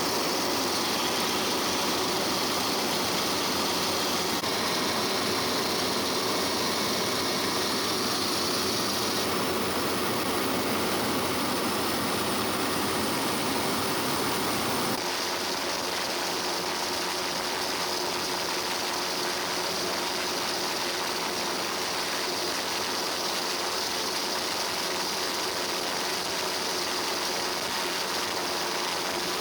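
Steady helicopter engine and rotor noise heard inside the cabin, a continuous dense rushing hum. About halfway through it drops slightly and changes character abruptly.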